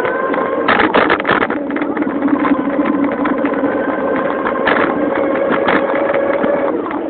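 Motorized bicycle with a 1200-watt Cyclone motor and Turbo Spokes exhaust being ridden: a steady pitched buzzing drone that drops in pitch near the end, with scattered rattles and knocks from the bike.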